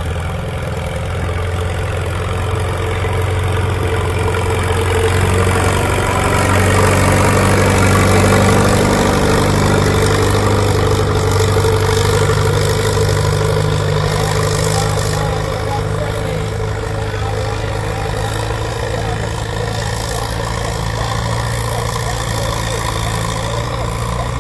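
Pulling tractor's engine running hard under load, rising in pitch and growing louder over the first several seconds, then holding at a steady high drone.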